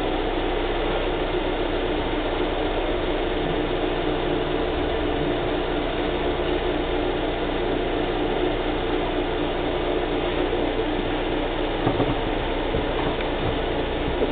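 Subaru Outback engine idling steadily, left running so the CVT fluid level can be checked. A couple of light clicks come about twelve seconds in.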